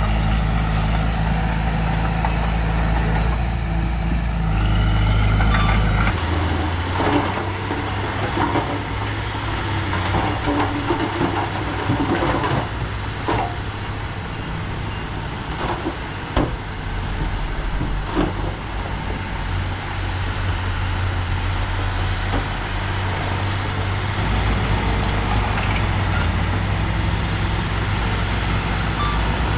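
Heavy earthmoving machinery's engine running steadily under work, its note shifting about six seconds in, with a series of sharp clanks and knocks over the following twelve seconds or so.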